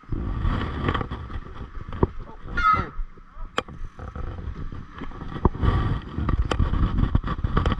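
Mountain bike being ridden over a rough, muddy trail: a steady low rumble with many sharp rattles and knocks from the bike over the ground, and a brief wavering high squeal about two and a half seconds in.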